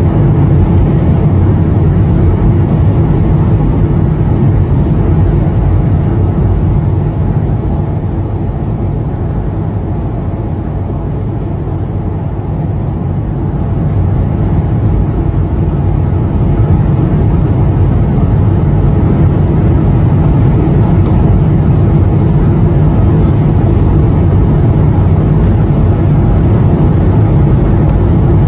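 Steady low drone of an airliner in flight, engine and airflow noise as heard inside the cabin. It eases off a little partway through, then builds back.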